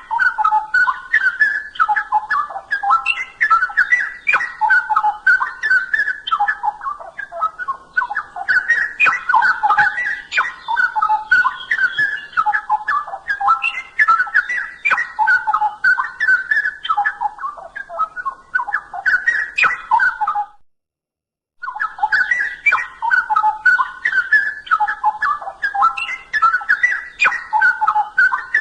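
Straw-headed bulbul (cucak rowo) singing loudly: a continuous stream of rapid whistled notes jumping up and down in pitch. The song cuts out completely for about a second roughly two-thirds of the way through, then resumes.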